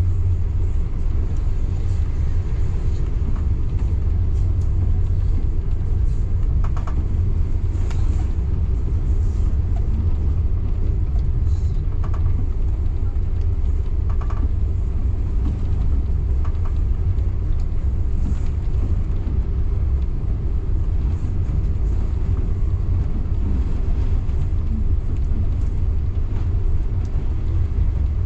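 Local passenger train running steadily on the line, a continuous low rumble with faint brief clicks every few seconds.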